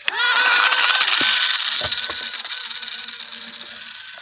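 RC plane's motor and propeller throttled up suddenly for a takeoff run from the ground: a high motor whine over a rushing propeller noise, wavering in pitch and slowly fading.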